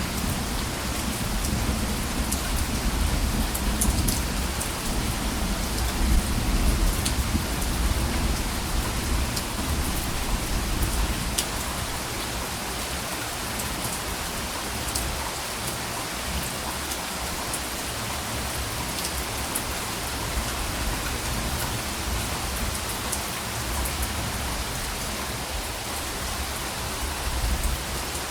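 Steady rain falling, with individual drops ticking through the hiss. A low rumble of soft, distant thunder runs through the first several seconds, dies away, and swells briefly again near the end.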